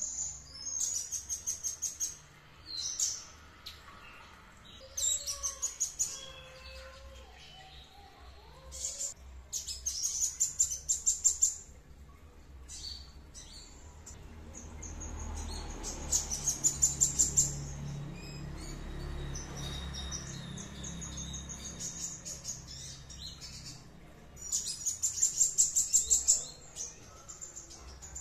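A small songbird singing in repeated bursts of fast, high trills, each about a second or two long, with short pauses between them.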